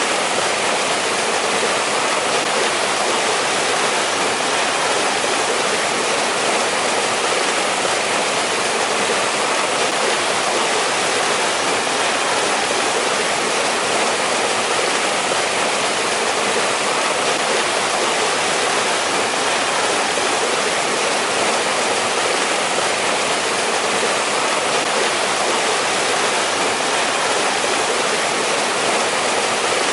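Mountain valley stream flowing over rocks, a steady rushing of water with no change.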